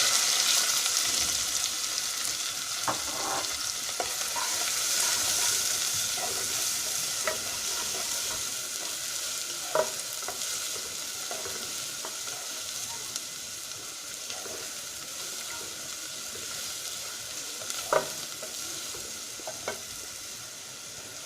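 Onions dropped into hot oil with whole spices, sizzling in a frying pan. The sizzle starts suddenly, is loudest in the first few seconds and then gradually dies down as they fry, with a few short clicks from the stirring spoon against the pan.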